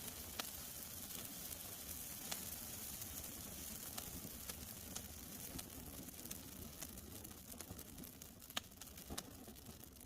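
Wood campfire burning with a faint steady hiss and scattered sharp crackles and pops, the sharpest two near the end.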